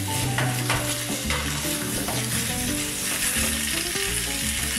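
Ribs, onions and carrots sizzling in a hot stainless steel roasting tin as a wooden spatula stirs and scrapes them round, frying dry before any liquid goes in.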